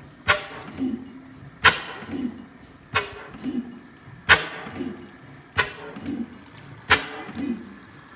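5 HP Hornsby Akroyd hot-bulb oil engine running slowly: a sharp clack about every 1.3 seconds, each followed by a softer, lower thump.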